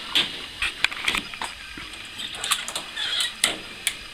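Footsteps on a driveway: a string of irregular scuffs and clicks as someone walks slowly toward a resting cat.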